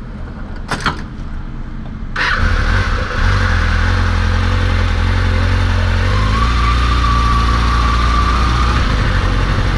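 Motorcycle engine idling with a short click about a second in, then running louder from about two seconds in as the bike pulls ahead, a steady low rumble.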